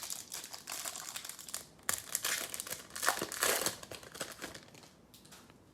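Plastic wrapper of a Bowman baseball card pack being torn open and crinkled by hand: a run of dense crackling and rustling, loudest in the middle and dying away near the end.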